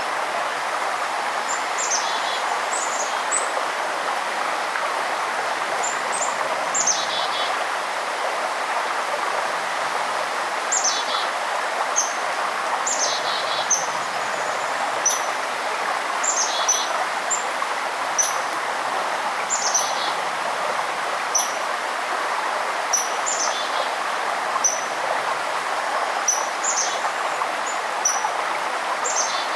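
Steady rush of a forest stream, with a songbird repeating short, high, down-slurred calls every second or two.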